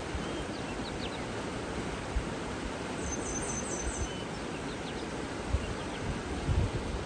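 Steady rushing water with birds chirping: scattered thin chirps and a quick run of four high notes about three seconds in. A few low wind thumps on the microphone near the end.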